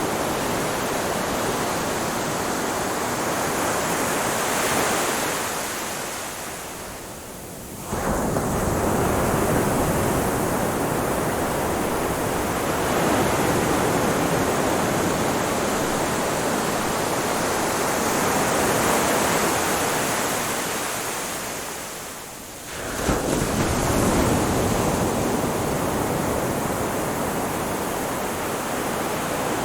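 Ocean waves breaking on a beach: a steady wash of surf that ebbs away twice and each time returns suddenly as a new wave breaks, about eight seconds in and again about twenty-three seconds in.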